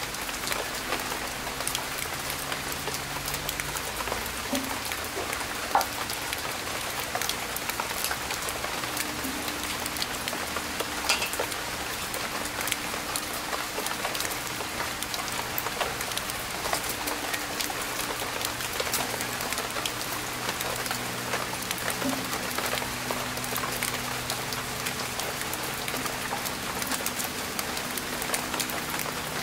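Steady rain falling, with many drops striking close by and a couple of slightly sharper knocks about six and eleven seconds in.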